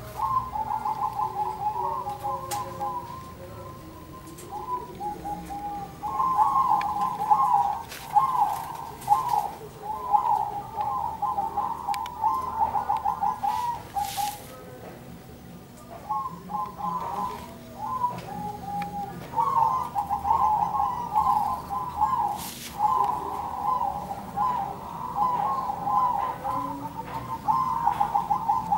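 Zebra doves (perkutut) cooing: fast, bubbling trilled phrases repeated in bouts, the birds answering one another, with short lulls between bouts.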